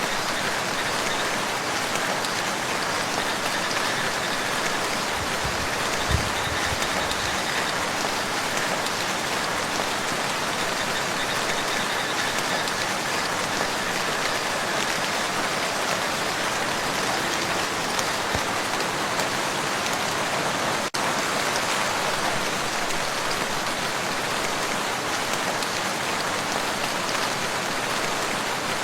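Steady rain falling on a lake, a dense, even patter of drops on water. There is a brief low thump about six seconds in.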